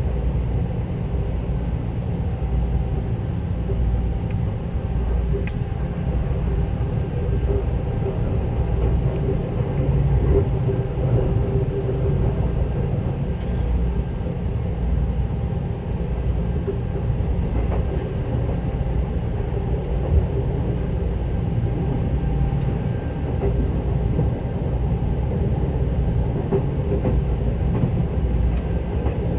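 Steady running noise inside a Seibu 10000 series electric train car: a continuous low rumble from the wheels and rails with a faint hum over it, and one sharp click about twenty seconds in.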